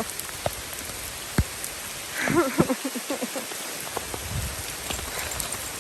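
Heavy rain hammering down, a steady hiss, with a few sharp taps in the first second and a half. A brief voice-like sound comes about two seconds in.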